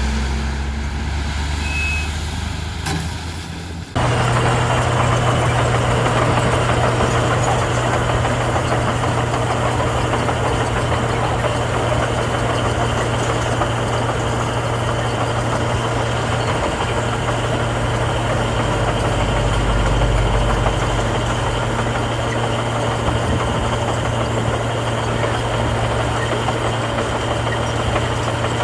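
Diesel engine of heavy earthmoving machinery running steadily with a deep hum, the sound changing abruptly about four seconds in.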